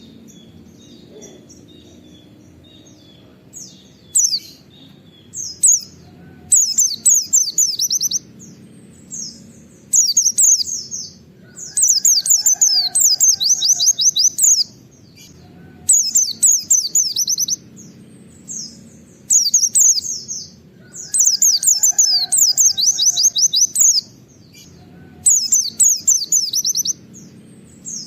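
White-eye (pleci) singing in repeated bursts of rapid, high chattering notes, each burst lasting one to three seconds with short pauses between: the fast 'nembak' shooting song with 'wit wit' phrases.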